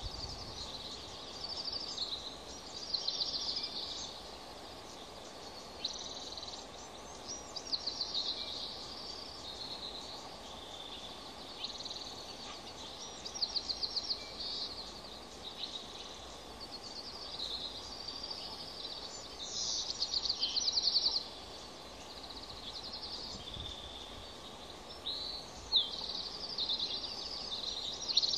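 Birds chirping in short, rapid high trills, one every second or two, the loudest about twenty seconds in, over a steady low hiss.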